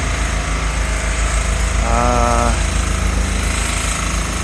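Loud, steady street noise with a low rumble and a rapid mechanical rattle. A short steady pitched tone sounds about halfway through.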